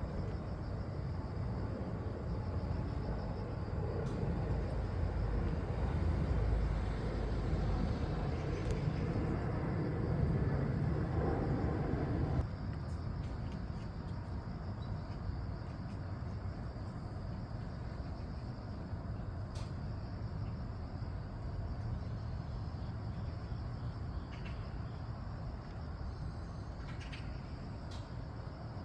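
Airplane passing overhead: a rumbling noise that swells over the first twelve seconds and then drops away suddenly, leaving a quieter outdoor background with a few faint bird chirps.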